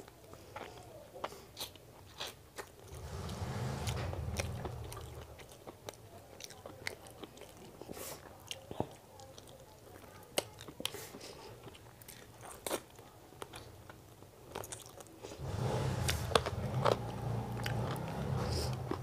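Close-miked eating sounds of chicken biryani eaten by hand: chewing, lip smacks and many sharp mouth clicks. A low rumble swells up about three seconds in and again near the end.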